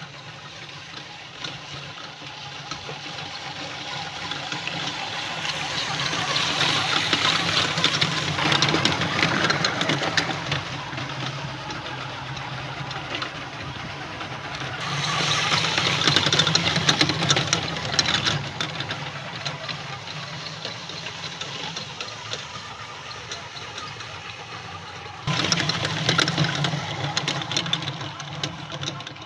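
Radio-controlled model truck without a sound module, its electric motor and gearbox whining loud and shrill as it drives. The whine swells louder twice and jumps up suddenly near the end.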